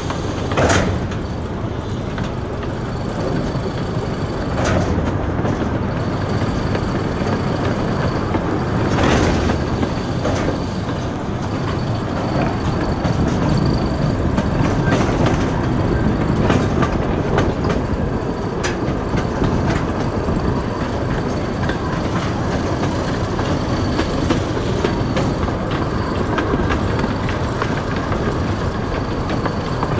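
Small zoo train running along its narrow-gauge track, heard from aboard: a steady rumble of wheels and cars, with now-and-then clicks and clacks over the rail joints and a faint high wheel squeal that comes and goes.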